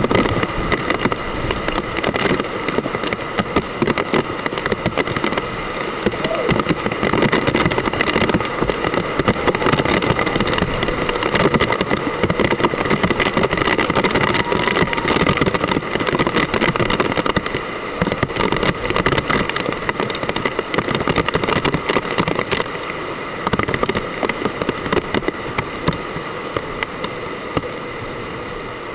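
Hard rain pouring down in a typhoon, a loud, dense crackling patter of drops that holds steady throughout.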